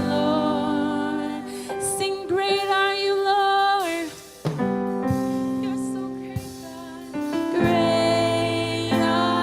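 Gospel worship music: sustained keyboard chords with singing over them, dipping briefly in level about halfway through.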